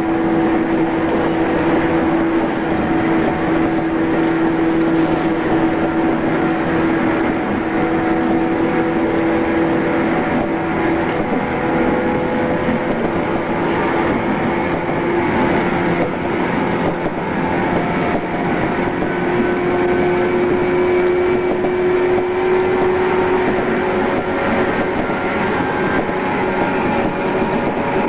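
JR East 113 series electric train running between stations, heard from inside the carriage: a steady hum of motors and gears with rolling noise. The hum climbs slightly in pitch past the middle as the train speeds up a little.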